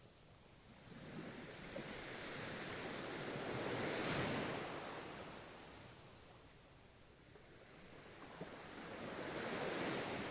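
Ocean waves breaking and washing up the shore. One wave swells to a peak about four seconds in and fades away, and a second builds near the end.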